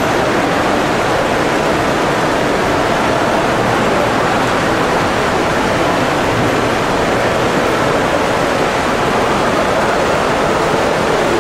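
Steady, loud rushing noise with no breaks.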